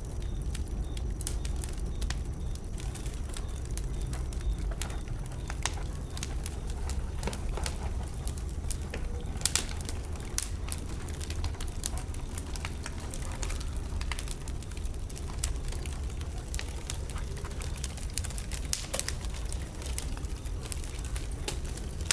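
Wood burning in a bonfire, crackling and popping irregularly over a steady low rumble, with one sharper pop about nine and a half seconds in.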